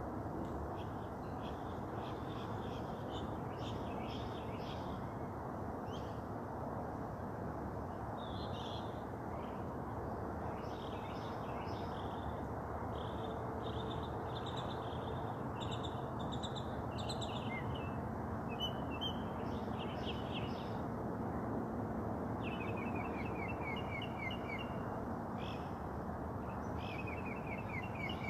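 Several songbirds calling and singing outdoors: scattered short chirps throughout, and twice, about 22 seconds in and near the end, a quick series of falling notes. Under the birds runs a steady low rushing background.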